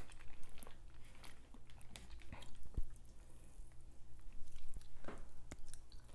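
Close-miked eating sounds: wet chewing and biting, with scattered small clicks and crackles of a soft shrimp shell being peeled.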